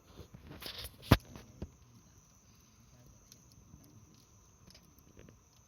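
Campfire crackling softly with scattered small ticks, and one sharp loud pop about a second in followed by a smaller one.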